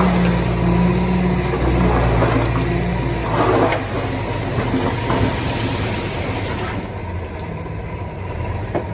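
Heavy diesel engine of earthmoving equipment running steadily. A short burst of rushing noise comes about three and a half seconds in, and the engine sound then fades to a fainter rumble.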